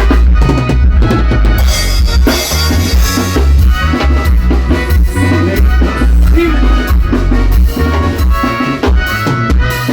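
A band playing Latin dance music, with a drum kit keeping a steady beat over a heavy bass line and melodic instruments.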